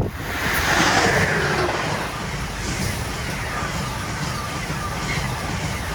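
Train passing close by: steady rail and wheel noise with faint squealing tones, loudest about a second in and then holding a little lower.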